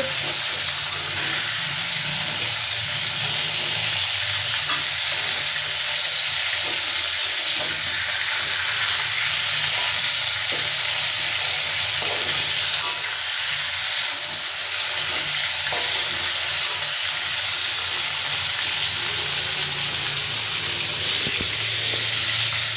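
Chicken pieces sizzling steadily in hot mustard oil in a metal kadai, with a few faint scrapes and taps of a metal spatula as they are stirred.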